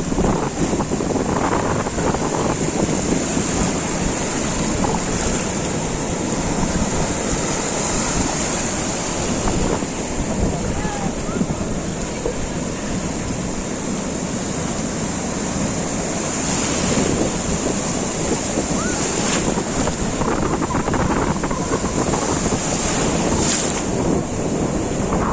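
Surf breaking and washing up a beach in a steady wash of noise, with wind buffeting the microphone.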